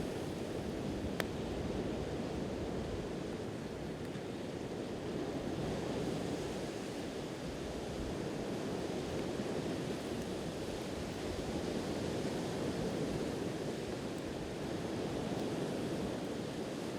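Sea waves washing on the shore, a steady rush that swells and eases slowly. A wood campfire gives a single sharp crackle about a second in.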